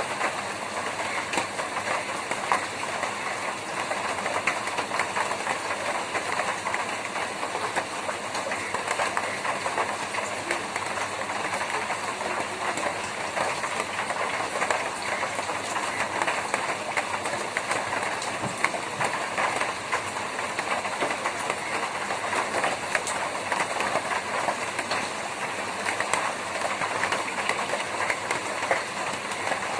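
Rain falling on a tin roof: a steady, dense patter of many small drop impacts on the metal sheet, with no let-up.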